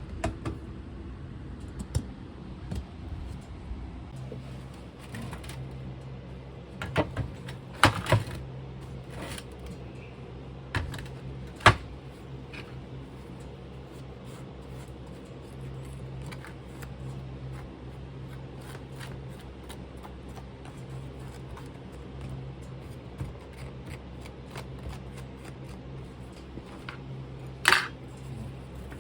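Scattered clicks and knocks from tools and equipment being handled at a metal-casting station, a few of them sharp and loud, over a steady low hum.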